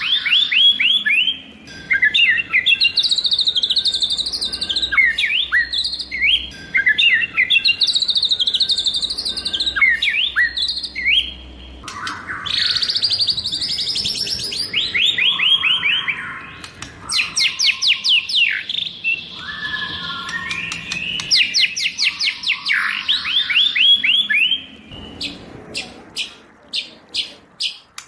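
White-rumped shama singing a long, varied song: rapid runs of sharply falling whistled notes alternating with warbled phrases. Near the end the song gives way to a series of sharp clicking notes, about two or three a second.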